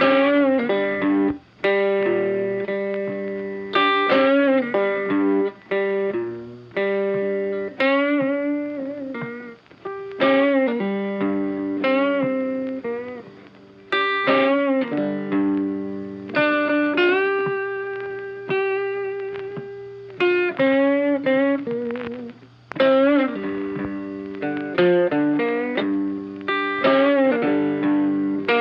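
Background music: a guitar playing a melody of plucked notes that ring and die away, many of them bent in pitch.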